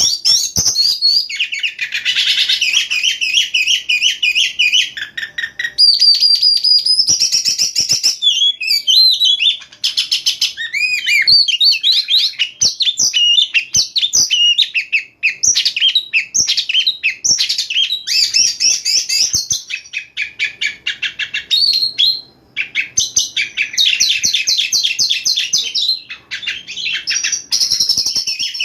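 Oriental magpie-robin (kacer) singing a long, loud, varied song, with rapid trills, gliding whistled notes and fast chattering bursts, and only brief pauses.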